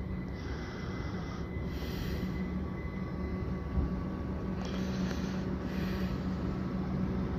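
Electric multiple unit train passing below, a steady low rumble with a constant hum. Short bursts of hissing come and go over it.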